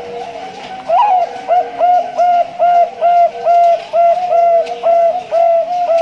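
Male Bangkok-strain zebra dove (perkutut) singing: an opening note about a second in, then a quick, even string of short coos, about three a second.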